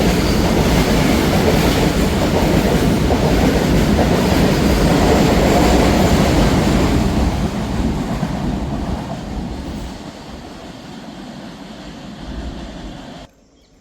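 Train running past on the track, its wheels and cars making a loud, dense noise that fades away as it recedes. The sound cuts off abruptly near the end.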